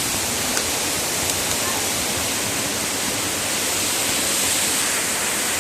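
Steady rush of fast-flowing water, an even hiss with no change in level.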